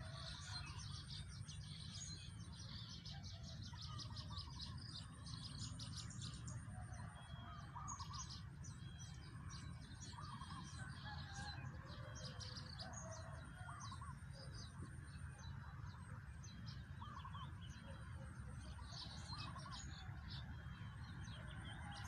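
Several small birds chirping and twittering in quick series among trees, with scattered lower, shorter calls mixed in. A thin high whine comes and goes, over a steady low rumble.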